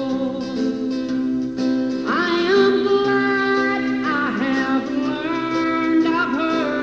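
A woman singing a slow gospel song with sustained, gliding notes over a steady guitar accompaniment; a new phrase begins about two seconds in.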